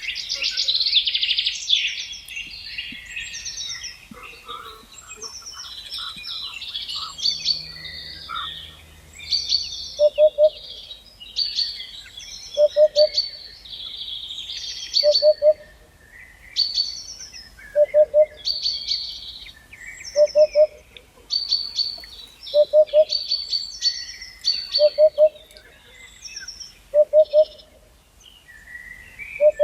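Several birds singing and chirping together, with high, quick song phrases overlapping throughout. From about ten seconds in, a lower call of three or so quick notes repeats about every two and a half seconds.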